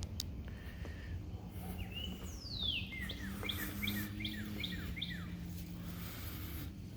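A songbird singing: a long whistled note sliding downward, then a quick run of short falling notes, over a low steady hum.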